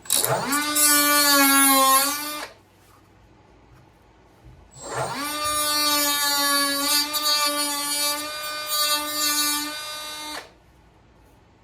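Small handheld power cutting tool with a carbon blade, cutting small wooden pieces. Its steady whine rises as it starts, runs about two and a half seconds, stops, then runs again for about six seconds before cutting off.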